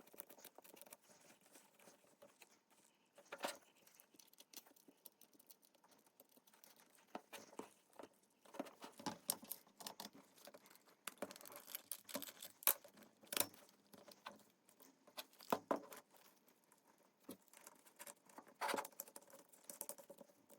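Faint, irregular clicks, taps and light rattles of small hardware being handled, as the on-off switch and key switch are fitted into the launch controller's enclosure; busiest in the middle stretch.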